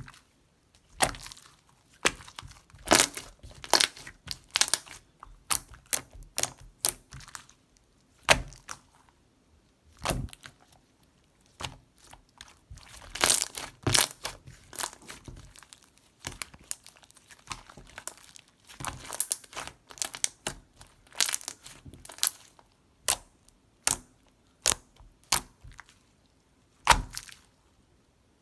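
Mixed water-jelly slime being squeezed and stretched by hand, giving irregular clusters of sharp, sticky crackles and pops with short pauses between them.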